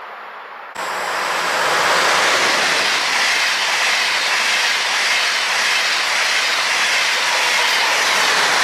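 Deutsche Bahn ICE high-speed train passing close by: a loud, steady rush of wheel and air noise that cuts in abruptly about a second in and holds to the end.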